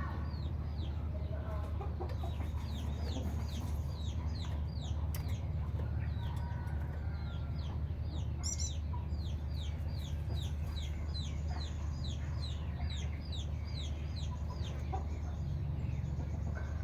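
A bird calling: a long, regular series of short, high whistled notes that each slide downward, about two or three a second, fading out near the end. A steady low hum runs underneath.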